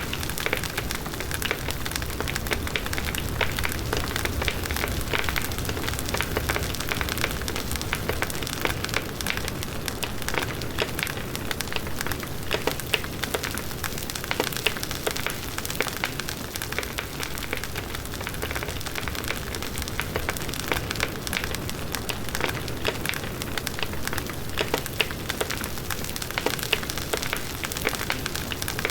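Wood bonfire crackling steadily, with dense small pops and snaps over the rushing of the flames.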